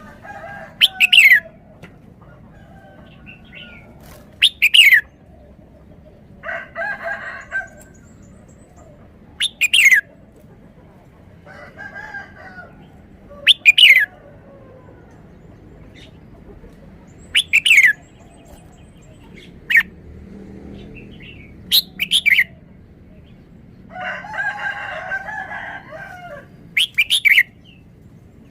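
Red-whiskered bulbul singing: short, loud, sharp phrases that fall in pitch, repeated every few seconds, with softer chattering warbles in between.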